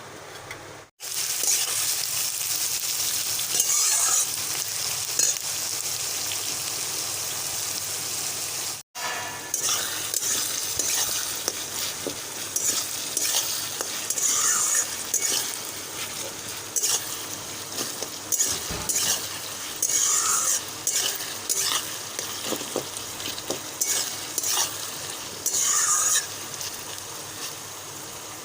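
Food sizzling as it fries in hot oil in a pan, with a spatula stirring and scraping against the pan and clinking on it. The sizzle starts about a second in and breaks off briefly once near the middle.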